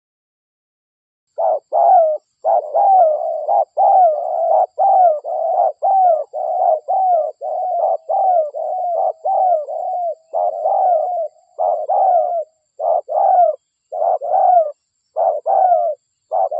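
Spotted dove (derkuku) cooing. After a short silence, a long run of quick, rolling coo notes follows, about two a second, each dipping in pitch.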